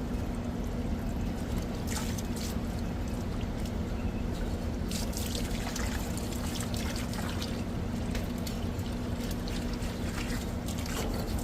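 Water pouring and splashing onto an overheated air-conditioner compressor to cool it after it tripped on its internal overload, with spells of heavier splashing. A steady low hum runs underneath.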